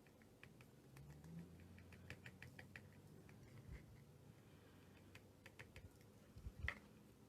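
Faint, irregular light ticking and clicking from handling small objects by hand, with one sharper, louder click near the end.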